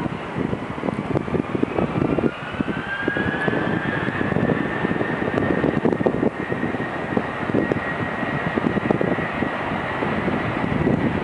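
Airbus A319 jet engines spooling up for takeoff: a whine rises for about four seconds and then holds steady over a dense rumble.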